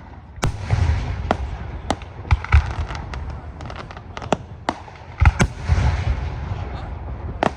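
Aerial fireworks display: shells bursting with sharp bangs and deep booms at an irregular pace, with crackling between them and two thicker clusters of bursts, about half a second in and again a little past the middle.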